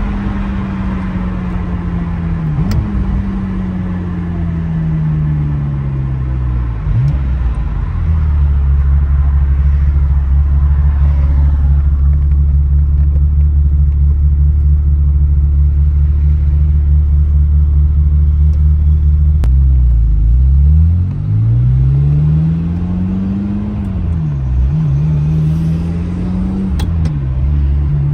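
Ferrari F355's V8 heard from inside the cabin. The engine note falls as the car slows, then holds a steady low drone for about ten seconds. Near the end it rises, with short dips between rises, as the car pulls away through the gears.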